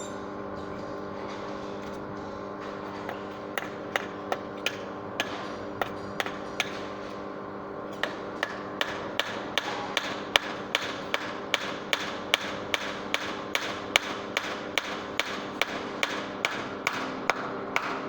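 A hammer striking metal, a few scattered blows and then steady, even hammering at about three blows a second, over a constant machine hum.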